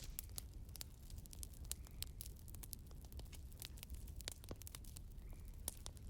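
Burning firewood crackling, with irregular sharp pops and snaps over a low steady rumble; the loudest snaps come at the very start and again near the end.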